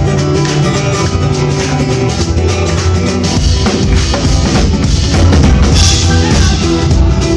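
Live band music with a drum kit to the fore, its bass drum and snare driving a steady beat under pitched instruments, and a bright crash about six seconds in.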